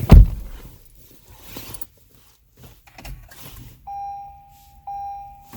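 A loud single thump, then a car's steady electronic warning tone that sounds from about four seconds in, breaks off briefly and starts again; there is no engine cranking, as the car will not start.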